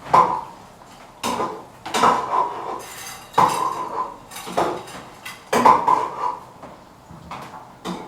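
A metal spoon knocking and scraping against a metal pot as food is scooped out, with sharp ringing clinks coming unevenly, about one a second.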